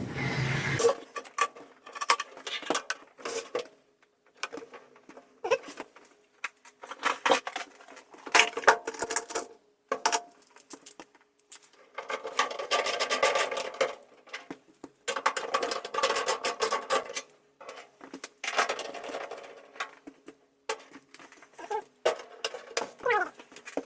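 Small hard metal objects clattering and rattling in irregular bursts, as when hands rummage through a drawer or case of tools and screwdriver bits.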